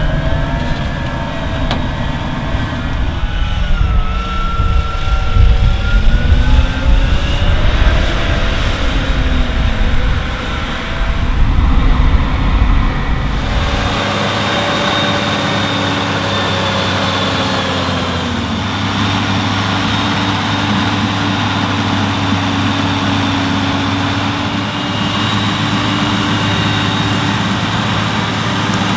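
Farm machinery engines at work: for about the first half an engine rises and falls in pitch over a heavy low rumble, then, after an abrupt change about halfway through, an engine runs at a steady speed.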